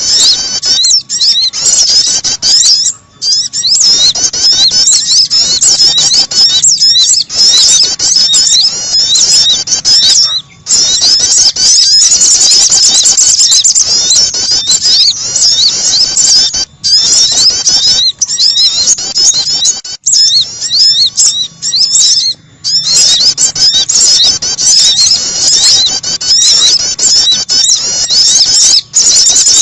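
Bird-lure recording of small songbirds, the sogon and the prenjak (prinia), calling: a dense stream of rapid high-pitched chirps and twitters with a few brief pauses.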